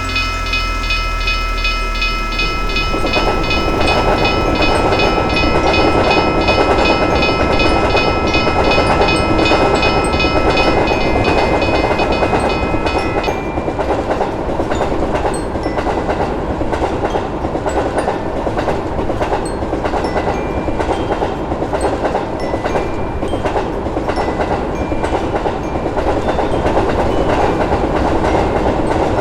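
Railroad crossing bell ringing in rapid repeated strokes as a train rolls over the crossing with a steady clickety-clack of wheels on rail joints. The bell stops a little under halfway through while the train keeps rolling past.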